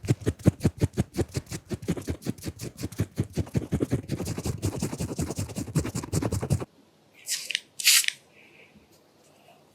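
Fast, rhythmic scratching strokes of a makeup drawing tool worked against the lens and microphone, about five or six strokes a second, which stop abruptly. Two quick, hissy swishes follow.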